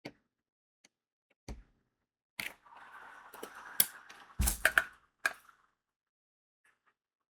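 Diamond painting work sounds: small hard clicks and taps of crystal beads and tools, then about two seconds of rattling and rustling with a few louder clicks among it, then one more click.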